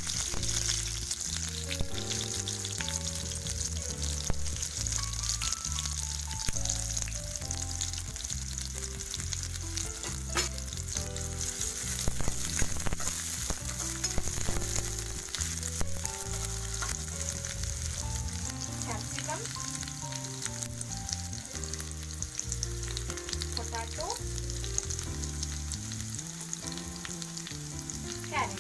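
Sliced onions frying in hot oil in a pan: a steady sizzle, with scattered clicks and scrapes as a steel ladle stirs them.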